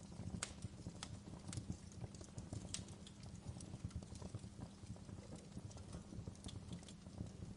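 Fireplace crackling: irregular sharp pops and snaps, a few each second, over a low steady rumble of burning.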